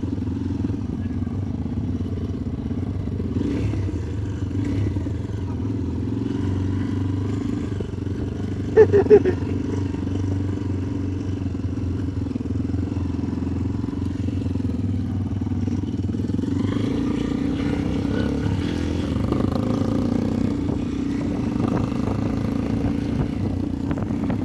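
Motorcycle engine running steadily during a ride. About nine seconds in there is a short, loud burst of two or three horn beeps.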